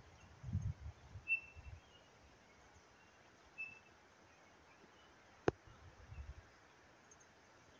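Two short, high bird chirps over quiet outdoor air, with a few low rumbles, likely wind on the microphone. A single sharp click comes about five and a half seconds in.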